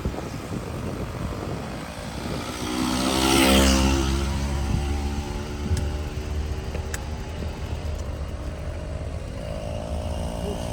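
City traffic heard from a moving bicycle: a motor vehicle's engine passes close by, loudest about three to four seconds in and then fading, over a steady low rumble.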